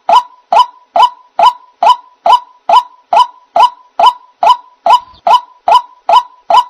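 White-breasted waterhen (ruak-ruak) call used as a trapping lure: a steady, loud run of short honking 'kwak' notes, about two and a half a second.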